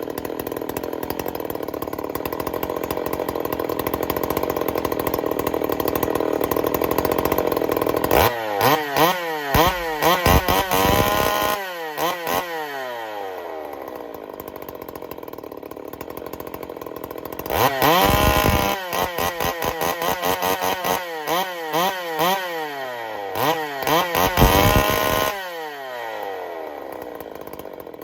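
Freshly built Jonsered 2186 two-stroke chainsaw engine running on its first runs. The throttle is blipped repeatedly from about eight seconds in, the revs rising and falling quickly, then it drops back to idle. A second series of quick revs comes near the middle and ends a few seconds before the end, when it settles back to idle.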